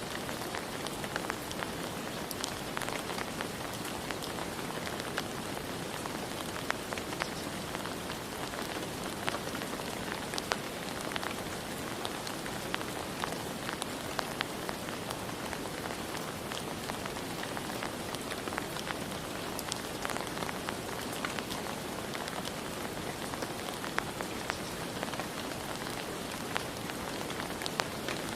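Steady rain falling, an even hiss with many separate drops ticking against surfaces throughout.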